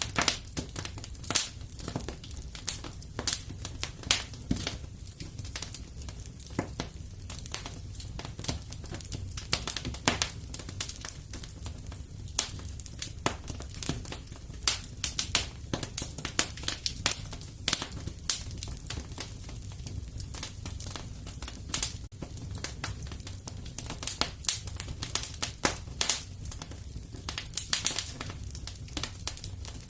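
Wood fire crackling in a fireplace: irregular sharp pops and snaps, sometimes several a second, over a steady low rumble.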